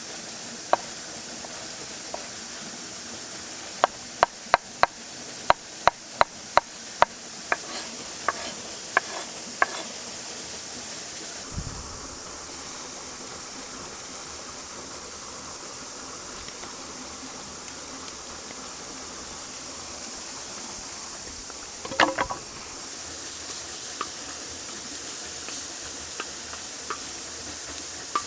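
Camp cooking over a steady hiss: about four seconds in comes a quick run of a dozen or so sharp knocks of a utensil, and about 22 seconds in a louder metallic clatter with a brief ring.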